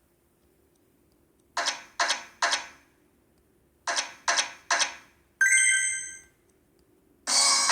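Video slot machine sound effects: two quick runs of three short clacks, then a bright chime that rings and fades about five and a half seconds in, and another loud burst near the end.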